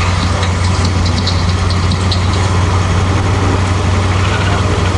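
Chevy 350 small-block V8 in a Toyota Tacoma drift truck idling steadily, a constant low drone.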